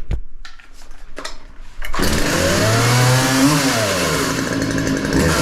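A few handling clicks and knocks, then about two seconds in a petrol chainsaw catches and runs, revving up and back down once, then running steadily.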